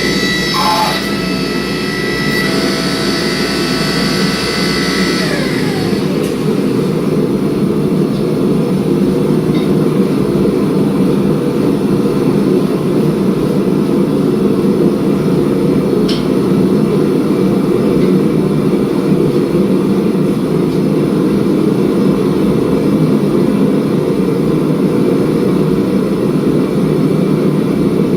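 Steady low roar of a gas forge burner. A high machine whine at the start winds down and stops about five to six seconds in.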